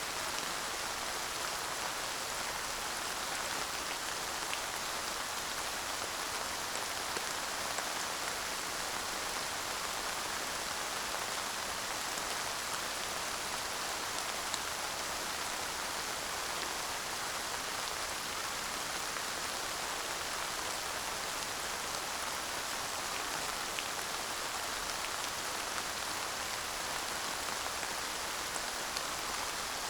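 Steady light rain falling, an even hiss with scattered faint drop ticks and no thunder.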